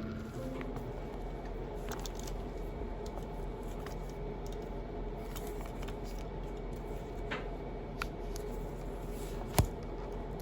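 Indoor room tone: a steady low hum with scattered light clicks and taps of small objects being handled, and one sharp click about nine and a half seconds in.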